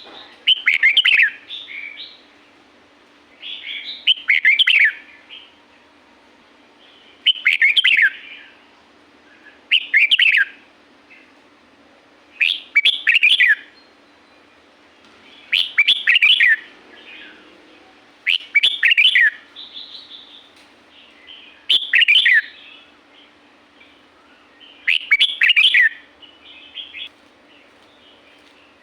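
Red-whiskered bulbul singing: nine short, loud warbled phrases of quick rising and falling notes, one about every three seconds.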